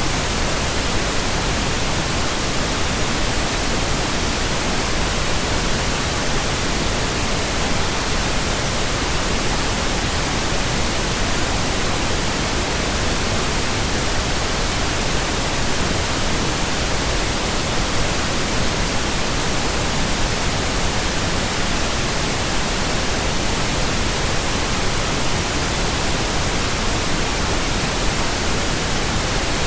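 Steady pink noise: a constant, even hiss that does not change.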